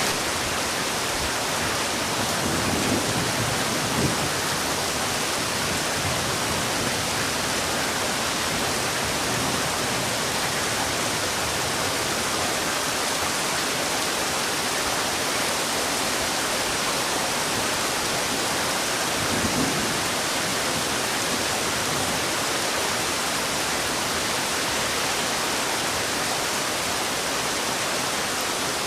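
Heavy rain falling steadily, a dense even hiss with no letup. Brief low swells come about three seconds in and again about two-thirds of the way through.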